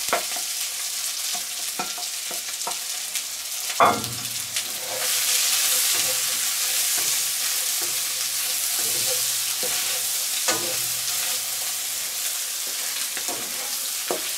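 Diced bread dumplings, bacon and onions sizzling in butter in a wok over charcoal while a wooden spatula stirs and scrapes them. The sizzle swells a little about five seconds in, and a few knocks against the wok break through, the loudest about four seconds in.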